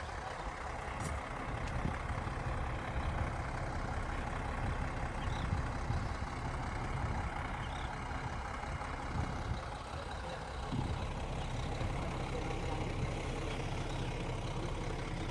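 Heavy diesel engine of a bulldozer running steadily: a low, pulsing rumble.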